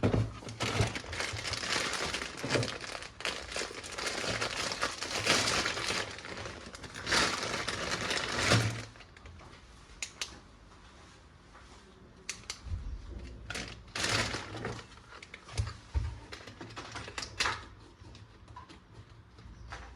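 Plastic packaging crinkling and rustling as it is unwrapped for about nine seconds, then scattered sharp clicks and knocks as the toy parts are handled.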